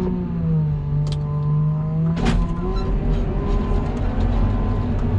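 Snow-plow machine's engine running steadily under load, with a sharp clank a little over two seconds in, after which the engine note changes and the low rumble deepens.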